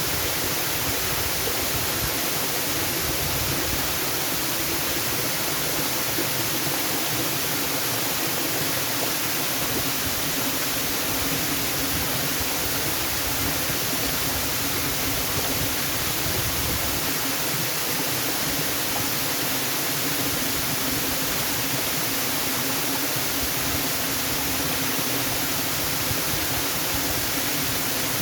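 Waterfall: falling water making a steady, unbroken rush, bright and hissy in the high range.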